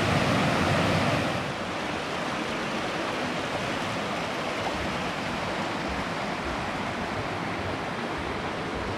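Steady rush of water pouring over a small waterfall about eight feet tall. About a second and a half in, the rush drops to a quieter, even level.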